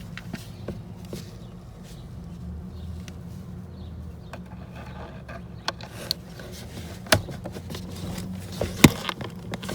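Small electric water pump running with a steady low hum while it is tested, with a few sharp clicks and knocks, the loudest near the end.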